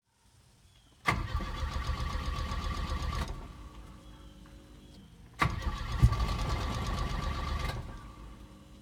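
Volvo B230F turbo four-cylinder engine being cranked cold twice, each try starting with a sharp click and running about two seconds before dying away without settling into an idle, with one sharp knock early in the second try. A hard cold start, which the owner traces to a newly swapped wiring harness.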